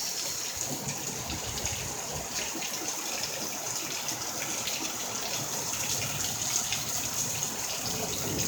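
Heavy rain falling steadily: a dense, even hiss of rain with many small drop impacts.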